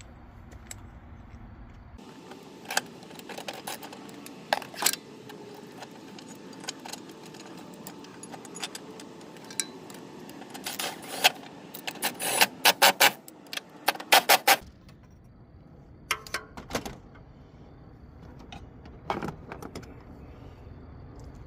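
Metal hand tools and bolts clinking and clicking while the engine mount bracket bolts are fitted. There are scattered sharp clinks, then a quick run of clicks about halfway through.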